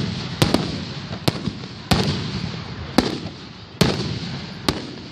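Aerial fireworks exploding in a rapid, irregular series, about six sharp bangs in five seconds, each trailing off in echo.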